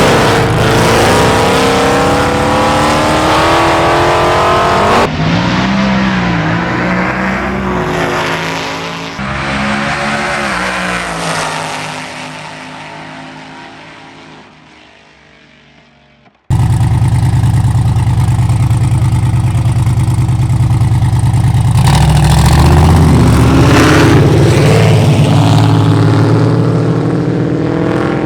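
Street cars accelerating at full throttle down a drag strip, the engine note climbing in pitch, then fading as they pull away. After a sudden cut, a loud, deep engine drone runs steadily and swells again near the end.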